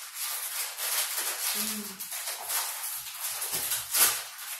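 Crinkly, crackling rustle of snack chips being handled and eaten close to the microphone, with a brief hum of voice about a second and a half in.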